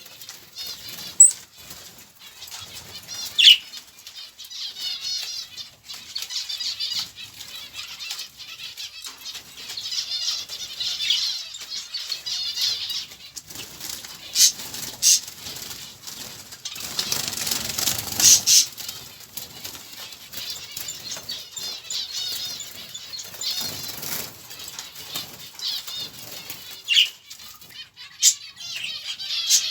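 Many small keeper's birds chirping and twittering together without a break, with wings fluttering at times and a few brief sharp sounds.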